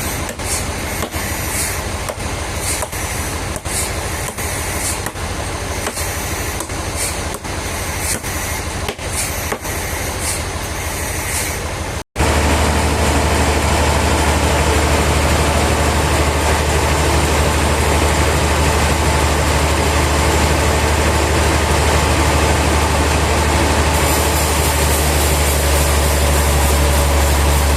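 Sawmill machinery: about twelve seconds of clattering with many sharp knocks, then, after an abrupt cut, a louder, steady low engine drone running without change.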